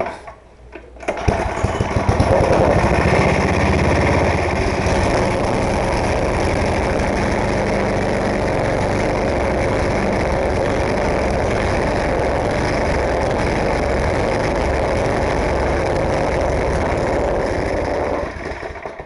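10 hp snowblower engine running at full throttle, starting to run about a second in and carrying on steadily before dying away near the end. It runs badly, sputtering with a 'pum pum pum' beat, part of the fault that keeps it from staying running.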